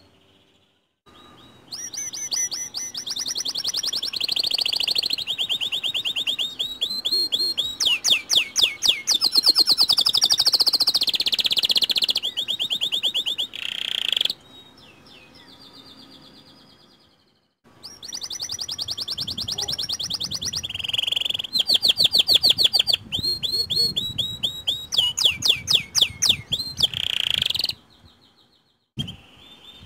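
White domestic canary singing in two long phrases of fast trills and rapid repeated notes, played as a lure song to set other canaries singing. The first phrase starts about two seconds in and the second about halfway through, with fainter song between them, and each phrase cuts off suddenly.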